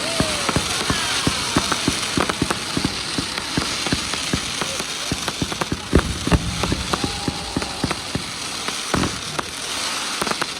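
Fireworks going off in a dense run of rapid crackling pops and bangs over a steady hiss. The loudest bangs come about six seconds in.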